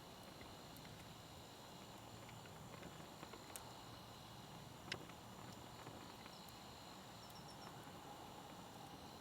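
Small wood campfire crackling faintly, a few sparse sharp pops over a quiet hiss, the loudest pop about five seconds in.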